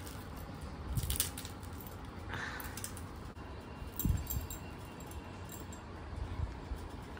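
A man eating roti with liver curry: quiet chewing and mouth noises, with a few soft clicks about a second in and a low knock around four seconds in.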